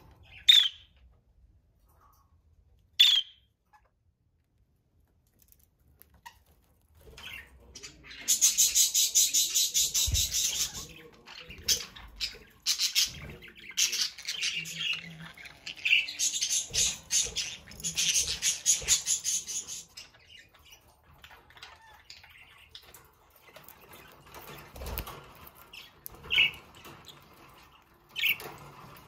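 Budgerigars chirping and chattering: two sharp chirps, a few seconds of quiet, then a long run of rapid, fast-repeating chatter, thinning to scattered chirps near the end.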